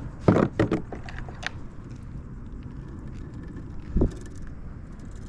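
Handling knocks on a kayak: a quick run of knocks and clatters in the first second, another about a second later, and a single low thump about four seconds in, over a steady low rumble.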